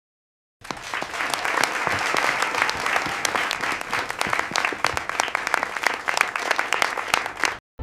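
A crowd applauding: a dense patter of many hand claps that starts abruptly about half a second in and cuts off suddenly just before the end.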